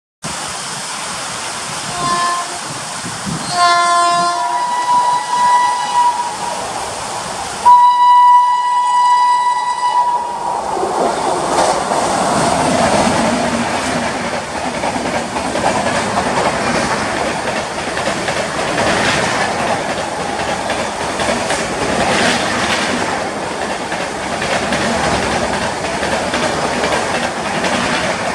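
A WAP-7 electric locomotive sounds its horn several times on approach, short blasts at first, then one long blast about eight seconds in that is the loudest sound. The express train then rushes past at speed, wheels clattering over the rail joints.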